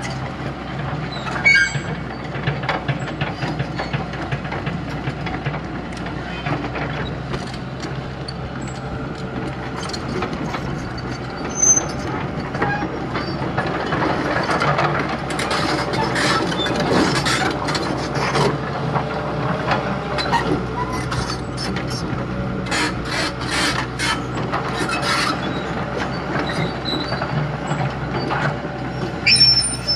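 Diesel engine of a heavy earthmoving machine running steadily at work, with rattling, scraping and clanking of steel and dirt. Sharp knocks come about a second and a half in, near the middle and near the end.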